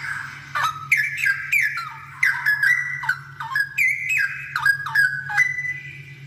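Straw-headed bulbul (cucak rowo) singing a loud, rapid run of rich whistled notes, many dropping sharply in pitch, for about five seconds, over a steady low hum.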